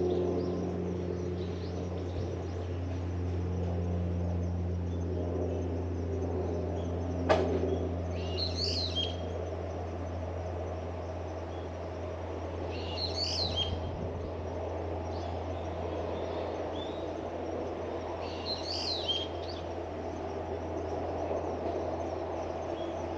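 A bird calling three times, about five seconds apart, each call a short cluster of high notes, over a steady low hum. A single sharp click sounds a little before the first call.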